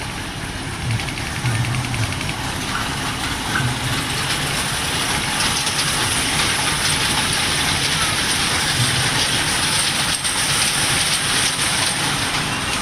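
A ride-on amusement train in motion: a steady noisy rumble and hiss that builds slightly over the first few seconds.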